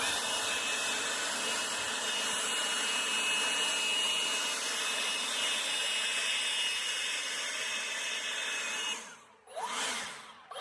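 Electric leaf blower running steadily at full power with a high whine over the rush of air, blowing debris off a roof. It cuts off about nine seconds in, then spins briefly up and down again near the end.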